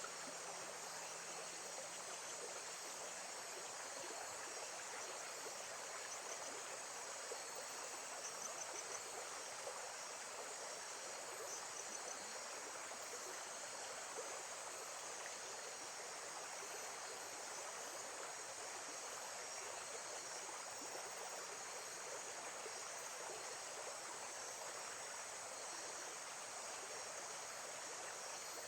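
Steady flowing water from a nature-sound recording, with faint short high chirps scattered over it.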